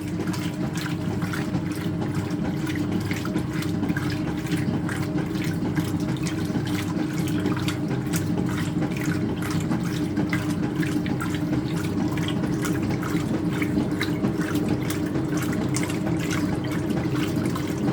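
Speed Queen top-loading washer agitating a load of towels: water sloshing and churning steadily over a constant motor hum as the agitator pulls the towels down the centre and up the sides.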